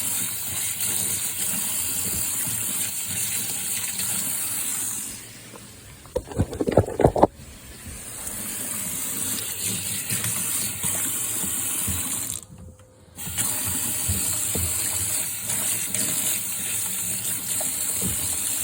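Water running steadily from a tap as engine oil is washed off hands. Handling clatters loudly about six to seven seconds in, and the water noise cuts out briefly twice.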